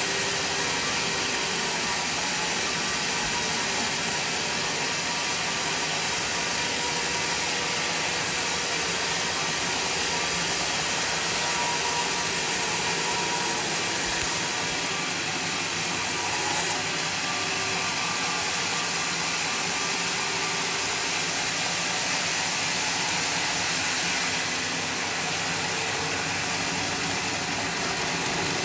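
Homemade sawmill machine running steadily with a continuous mechanical noise and engine hum, dropping a little in level near the end.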